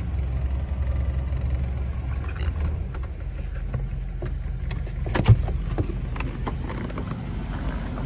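1952 Buick Super Eight's straight-eight engine running with a steady low rumble. A few light clicks come a little past halfway, with one sharp thump among them.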